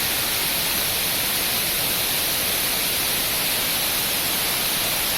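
Waterfall: falling water making a steady, unbroken hiss.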